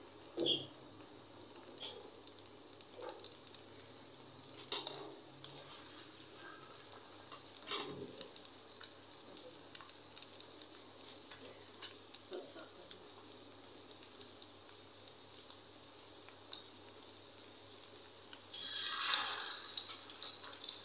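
Egg-dipped beef kabab patties frying in ghee on a tawa: a faint steady sizzle with scattered crackles and a few short knocks. The sizzling swells louder for a couple of seconds near the end.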